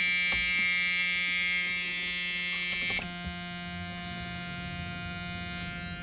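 Steady electric buzz with many overtones, dropping slightly in pitch and loudness about three seconds in.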